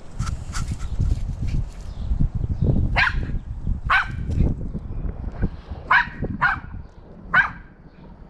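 American Eskimo dog barking five times, the fourth and fifth close together about six seconds in, over a low rumble of wind on the microphone.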